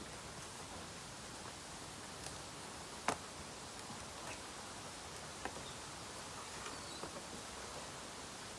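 Bamboo burning in an open bonfire, crackling over a steady hiss with scattered sharp pops. The loudest pop comes about three seconds in.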